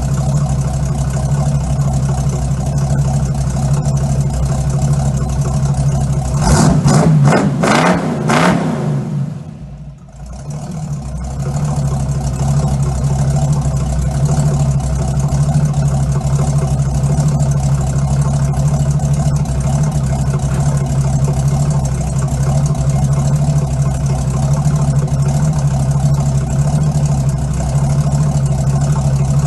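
1965 Ford Mustang's stock V8 idling steadily through its dual exhaust, with one rev about six seconds in that climbs and falls back over two to three seconds. Just after the rev the sound drops away for a moment, then the steady idle settles back.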